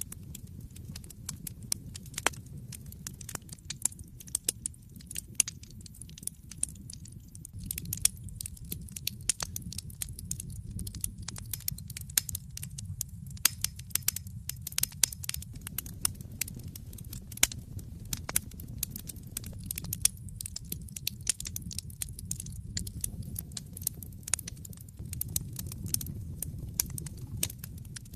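Wood fire burning in a fireplace: a steady low rumble of flames under frequent sharp crackles and pops from the burning logs.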